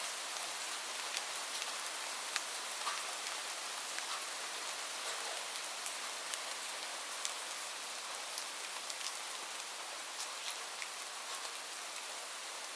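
Steady rain falling, an even hiss with scattered individual drops tapping close by.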